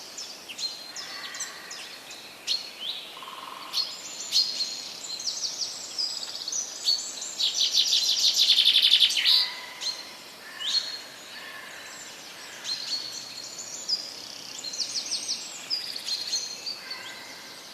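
Several birds singing and calling: quick high chirps and short trills, overlapping, with a dense rapid trill about eight seconds in.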